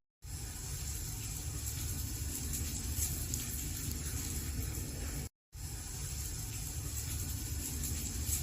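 Wood fire burning in a fireplace, a steady rush of flames with crackling wood. The sound cuts out completely twice for about a fifth of a second, once just after the start and once about five seconds in, like the seams of a looped recording.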